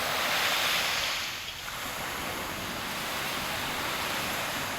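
Ocean surf: a wave breaks and rushes up the beach, loudest in the first second, then settles into a steady rushing wash of water.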